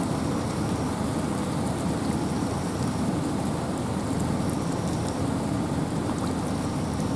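Steady rain falling with wind in a forest: a constant, dense low rush with faint scattered drop ticks above it.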